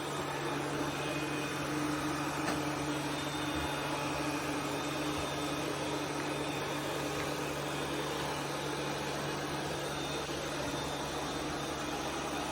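ECOVACS DEEBOT N20 PRO PLUS robot vacuum cleaner running, a steady motor hum with a fan whoosh.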